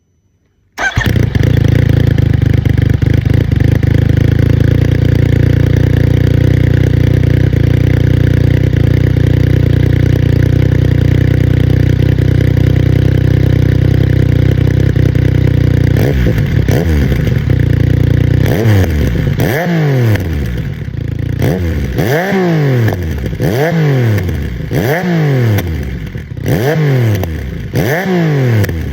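Yamaha MT-09 Tracer's three-cylinder CP3 engine through an aftermarket Roadsitalia Special Carbon exhaust, running steadily at idle. From about halfway, the engine is revved again and again, each rev rising and falling, about one every second and a half.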